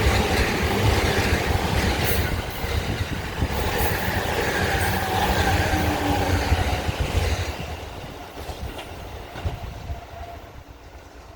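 A JR Chūō Line electric train passing close by a level crossing: loud wheel-on-rail noise that dies away after about seven and a half seconds as it moves off.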